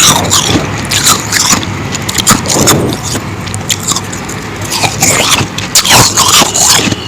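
Close-miked biting and chewing of powdery ice: a dense run of crisp, irregular crunches, a little sparser in the middle.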